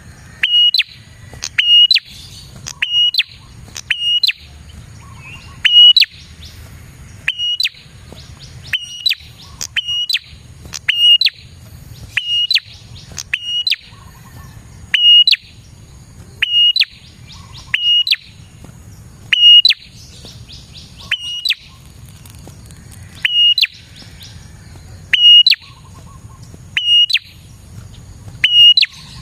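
Prinia (prenjak) giving a loud, sharp chirping call over and over, about once a second.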